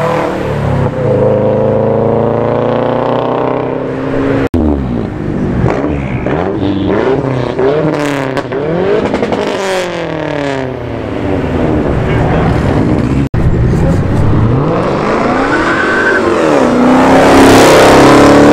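Car engines revving hard as cars pull away, their pitch rising and falling again and again. The loudest rev climbs near the end. The sound cuts out for an instant twice.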